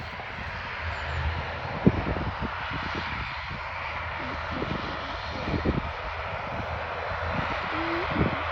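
ATR 72 turboprop's engines running steadily on the ground with propellers turning, a constant even hiss, before the takeoff roll. Low thumps come and go under it, the sharpest about two seconds in.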